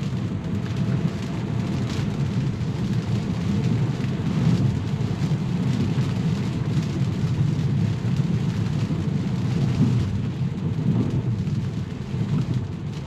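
Steady low rumble of tyres on a wet road mixed with rain, heard inside the cabin of a Tesla electric car driving in the rain.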